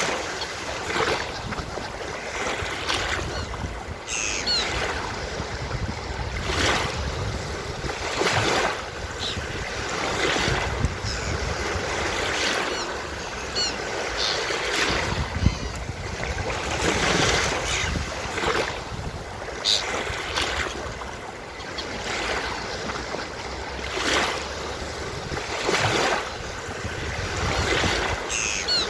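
Ocean surf on a beach: waves breaking and washing in, swelling every few seconds. A few short, high seagull calls sound over it at intervals.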